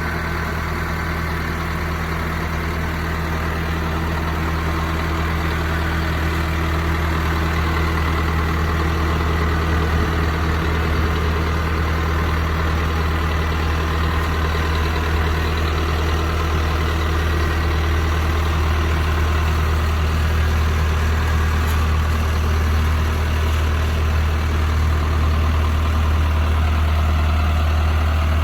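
John Deere 6430 farm tractor's diesel engine idling steadily, growing slightly louder.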